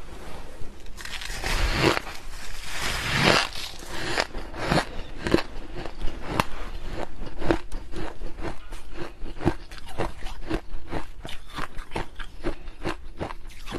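Freezer frost being bitten and chewed: a few longer crunches in the first few seconds, then quick crisp crunches about three a second as the frost is chewed.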